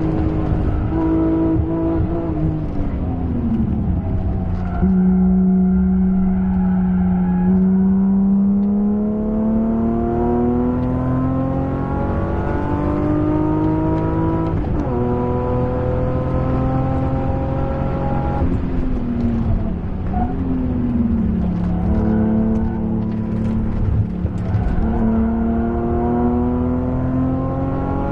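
BMW M3 E36's 3.2-litre straight-six heard from inside the cabin under hard track driving. The revs fall at first, then climb steadily under full acceleration, drop sharply at two upshifts, fall again under braking with a quick rev blip on the downshift, and rise once more near the end.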